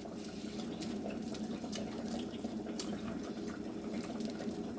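Hot frying oil sizzling steadily, with scattered small crackles and pops.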